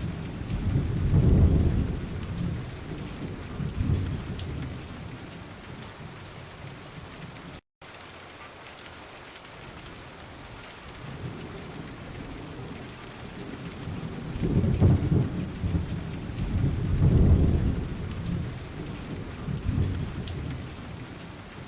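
Steady rain with thunder rolling in slow low rumbles, strongest near the start and again for a few seconds about two-thirds of the way through. The sound cuts out briefly about eight seconds in.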